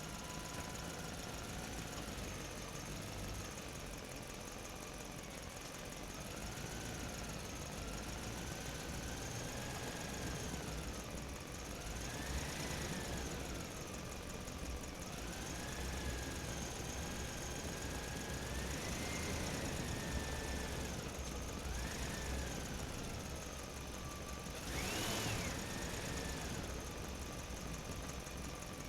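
Motor of a miniature model dump truck running with a whine whose pitch rises and falls repeatedly as the truck drives, climbing highest near the end.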